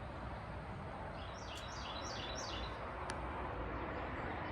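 A small bird chirping: a quick run of about five short, high, downward-slurred notes a little over a second in, over a steady low outdoor background rumble, with one sharp tick shortly after.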